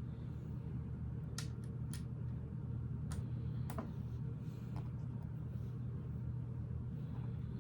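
A few sharp, short clicks of Lego pieces being handled and fitted together, over a steady low background hum.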